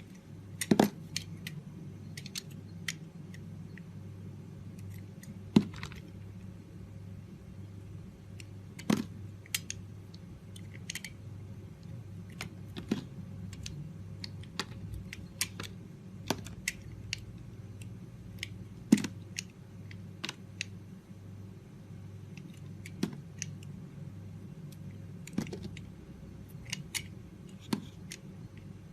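Knife carving a bar of soap: scattered crisp cuts and small ticks, with a louder snap of the blade every few seconds, over a steady low hum.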